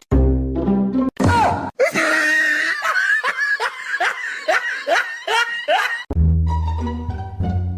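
Background music breaks off about a second in for some four seconds of loud laughing in repeated bursts, about two a second, then the music comes back near the end.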